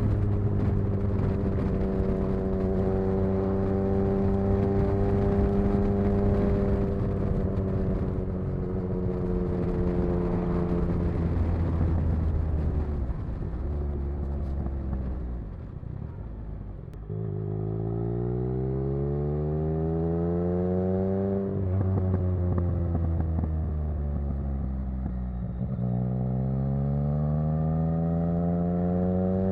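Yamaha XSR900's inline three-cylinder engine through an exhaust with its dB killer removed, running steadily while riding, then dropping to low revs. About halfway through it revs up hard, breaks off, falls and climbs again near the end as the bike accelerates.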